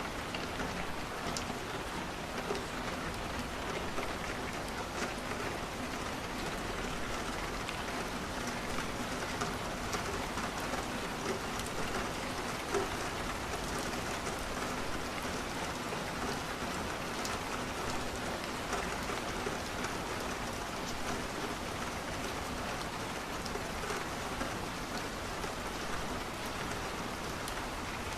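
Steady rain on a window, a constant even hiss with scattered faint clicks.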